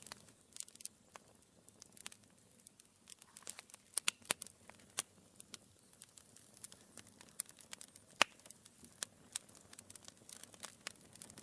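Wood fire in a fireplace crackling, with irregular sharp pops and snaps from the burning logs over a faint steady hiss.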